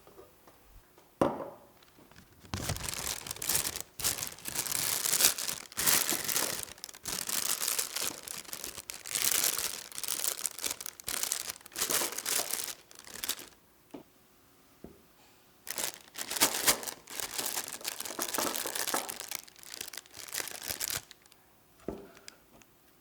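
Plastic bag crinkling and rustling as it is handled, in long stretches with a short pause in the middle. There is a single knock a second or so in and another near the end.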